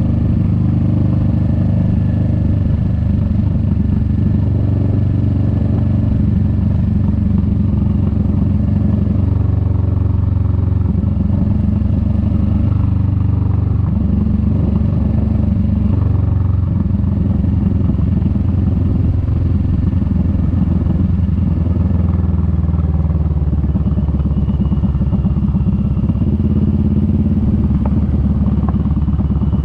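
Kawasaki Vulcan S 650's parallel-twin engine running steadily on the move, its pitch stepping up and down several times as the revs change.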